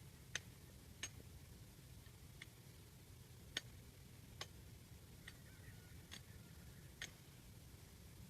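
Near silence with faint, sharp ticks scattered irregularly, about eight over several seconds.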